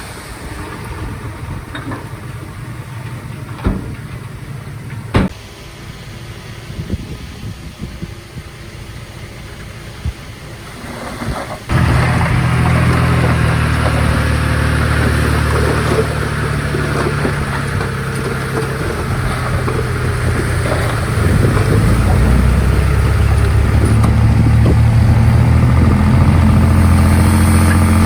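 Komatsu D51PX crawler bulldozer's diesel engine running, with a few sharp clanks in the first half. About twelve seconds in the engine sound jumps suddenly much louder and deeper, and it grows a little louder again near the end.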